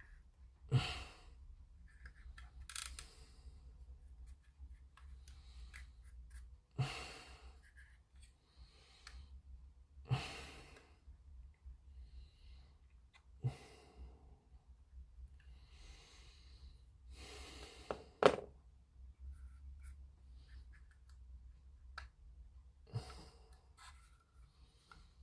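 Handling noise from a small plastic model kit being worked by hand: a handful of sharp taps and knocks several seconds apart. Most are followed by about a second of breathy exhaling, like sighs of frustration while a part refuses to stick.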